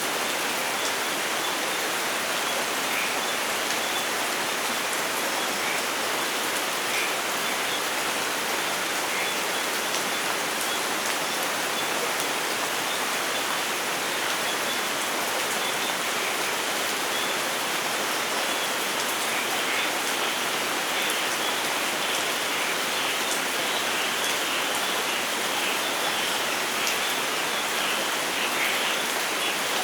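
Steady rain falling: an even, dense hiss with faint scattered drop patter.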